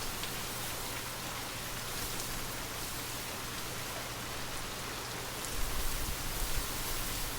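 Steady rainfall with a light wind: a soft, even hiss of raindrops. A low rumble comes in near the end.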